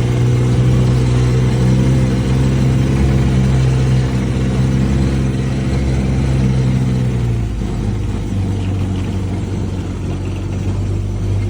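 Vehicle engine running steadily while driving, its note dropping lower about seven and a half seconds in.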